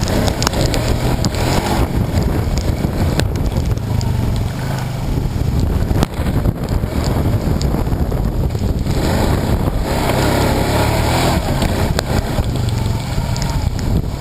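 Hurricane-force wind buffeting the microphone: a loud, steady rumbling rush.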